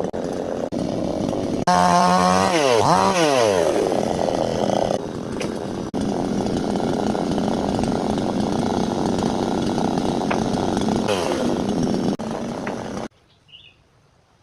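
Chainsaw engine revving up and down a few times, then running steadily at full throttle as it cuts through timber. It cuts off abruptly about a second before the end, leaving near silence.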